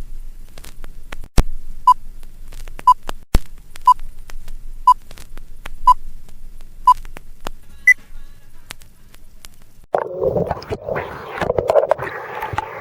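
A countdown of six short beeps at the same pitch, a second apart, then one higher final beep, with scattered clicks. Near the end a louder, jumbled rushing sound takes over.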